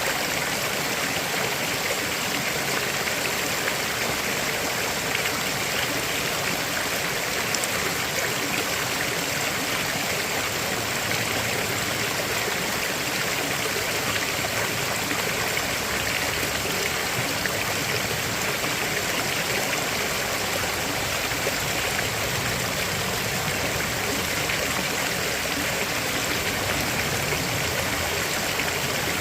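River water flowing over rocks: a steady rushing and gurgling.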